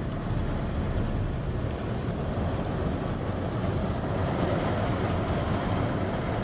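Steady low rumble of a car's idling engine and ventilation, heard from inside the cabin.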